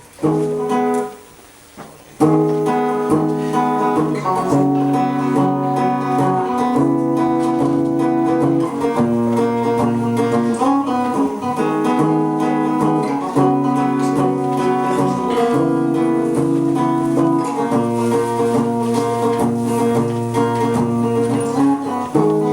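Acoustic guitar playing the instrumental introduction to a song: one short chord, a pause of about a second, then chords played steadily, changing every second or two.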